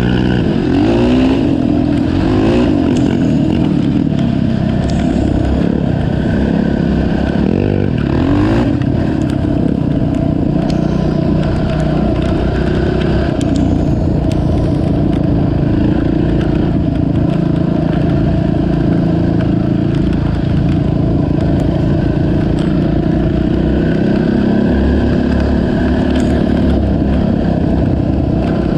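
Honda TRX 450 ATV's single-cylinder four-stroke engine running hard. Its pitch climbs sharply as it revs up about a second in and again about eight seconds in, then holds fairly steady.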